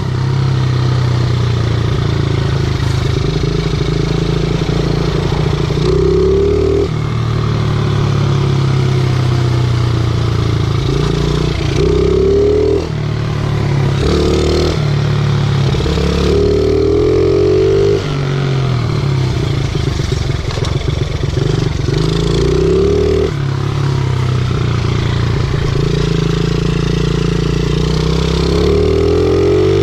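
50cc single-cylinder pit bike engine being ridden, its pitch climbing several times as the throttle is opened and falling back as it is eased off.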